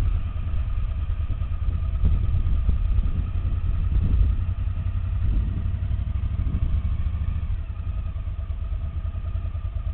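Off-road motorcycle engines running, a steady idle with a heavy low rumble; the engine sound swells for a couple of seconds about two seconds in, then settles back.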